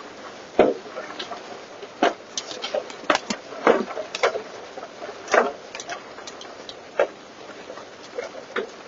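Large hailstones striking the body of a truck, heard from inside the cab: irregular loud knocks, a dozen or so, some sounding like bowling balls hitting the truck, over a steady hiss of rain.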